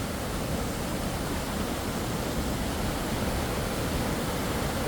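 Steady rush of a canyon waterfall, an even roar of falling water with no separate splashes.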